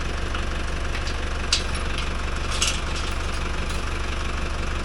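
Tractor engine idling steadily, with two short hisses about one and a half and two and a half seconds in.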